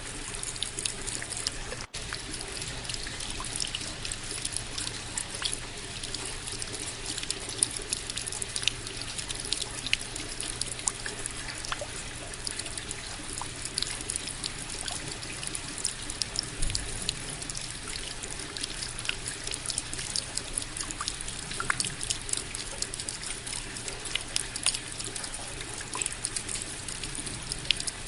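Steady rain falling: a dense patter of individual drops over a constant hiss, cutting out for an instant about two seconds in.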